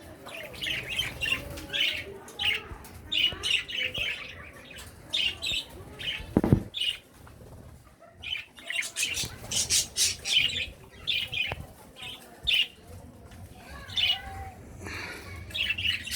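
Mixed pet birds in an aviary, budgies and finches among them, chirping and squawking in many short high calls. There is a brief low thump about six and a half seconds in.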